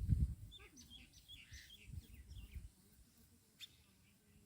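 Small birds chirping: a quick run of short, high chirps that rise and fall, starting about half a second in and lasting about two seconds. A low rumble fades out at the very start, and there is a single click near the end.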